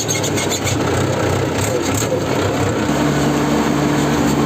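Tractor diesel engine running while the tractor drives, with a steady hum over rattling noise. About three seconds in, a steadier, higher engine hum sets in.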